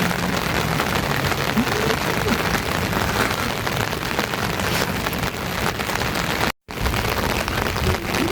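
Steady rain falling, a dense even hiss, broken by a brief drop to silence about six and a half seconds in.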